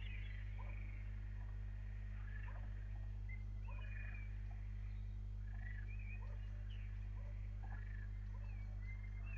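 Small animals calling: many short, overlapping croaks and chirps, some gliding in pitch, over a steady low hum.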